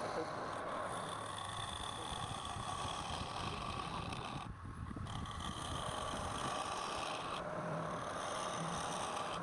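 Wood lathe running steadily while a turning tool cuts the spinning wood; the scraping cut breaks off for a moment about halfway through, then resumes.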